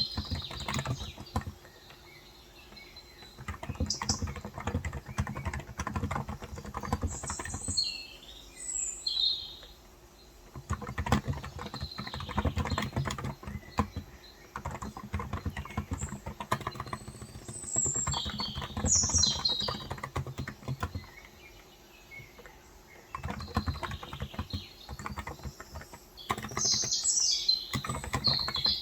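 Typing in runs of several seconds with short pauses between them, on a Cox Endeavour tenkeyless keyboard with 35 g electrostatic-capacitive (contactless) switches. Small birds chirp in short, high-pitched phrases several times over the typing.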